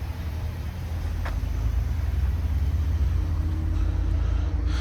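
Ford F-350 pickup's engine running, a steady low rumble.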